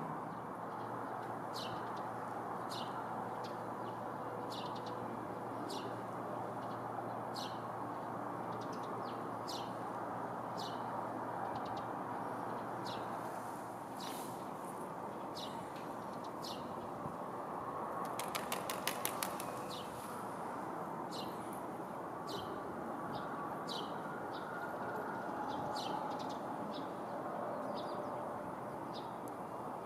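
A small bird chirping over and over in short high notes over a steady hum of city traffic. A low hum stops about halfway through, and a brief fast rattle of rapid notes comes a little later.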